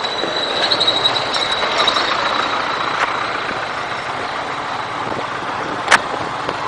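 Steady vehicle road noise with a faint high whine early on, and a single sharp click about six seconds in.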